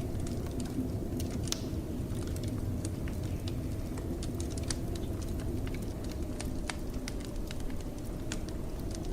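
Wood fire crackling, with frequent sharp irregular pops and snaps over a steady low rush of blizzard wind.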